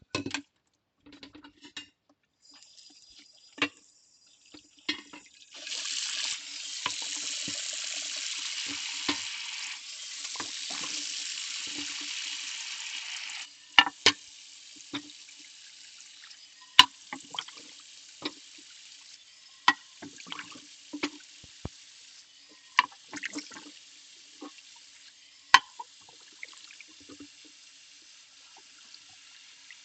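Kitchen tap running into a sink, hard from about six seconds in until about thirteen seconds, then a thinner stream. Ceramic plates clink and knock against each other and the sink as they are washed by hand.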